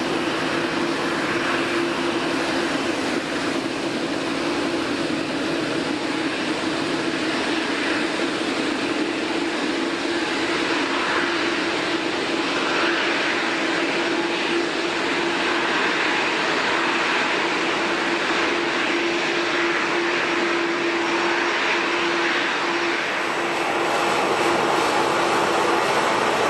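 Airliner jet engines running steadily: an even rushing noise with one constant humming tone, growing a little louder near the end.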